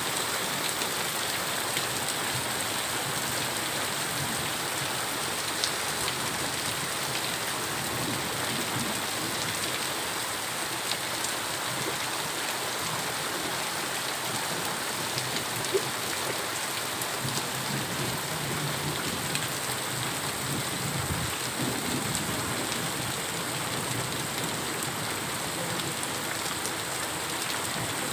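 Heavy rain pouring steadily onto a flooded street: a dense, even hiss of falling water with a few sharper drop ticks. A low rumble rises under it for a few seconds in the second half.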